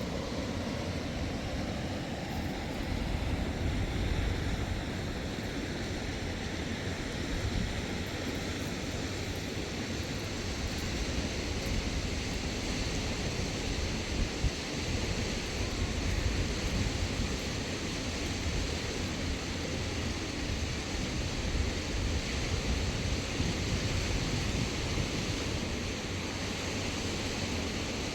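Wind rushing across the microphone, a steady noise with small gusts.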